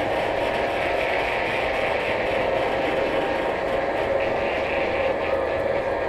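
Steady running noise of a vehicle, a constant rumble with a hum of several steady tones and no change in level.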